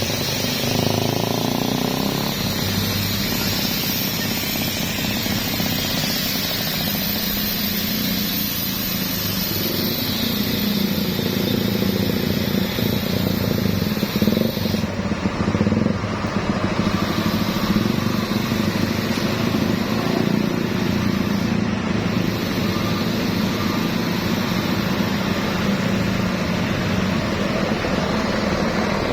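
Motor vehicles running on the road: a steady mix of engine noise and road noise, with no single event standing out.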